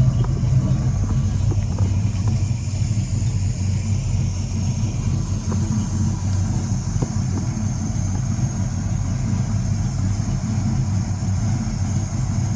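Box Chevy's engine idling steadily after a tune-up with new spark plugs, running smooth, "like a sewing machine".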